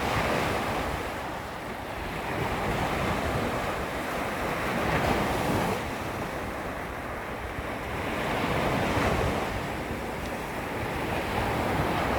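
Small waves lapping against a beach shoreline, swelling and fading every few seconds, with wind buffeting the microphone.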